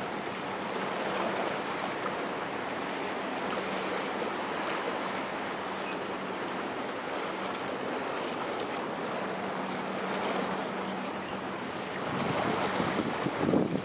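Rushing water of the wake from the high-speed ferry Nansha No.68, with wind buffeting the microphone. A steady low hum runs under it and stops about eleven seconds in. The rushing then swells louder near the end.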